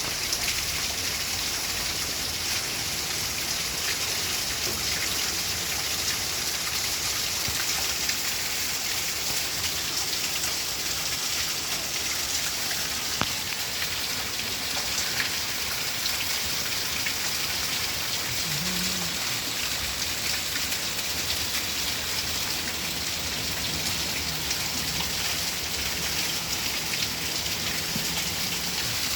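Heavy rain pouring down, a steady even hiss of rain hitting surfaces.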